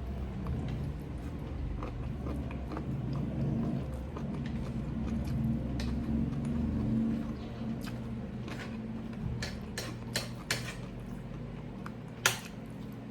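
Eating sounds: chewing, then a run of sharp clinks of cutlery against a plate in the second half, the loudest one near the end.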